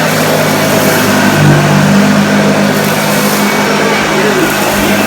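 A 1976 Hoover Starlight vacuum cleaner running steadily over carpet, its motor hum shifting slightly as it is pushed back and forth, picking up spilled dry pet food and porridge oats.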